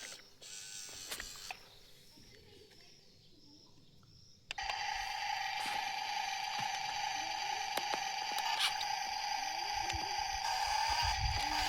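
Small geared electric motor of a radio-controlled toy vehicle starting up suddenly about four seconds in and running with a steady high whine and gear noise.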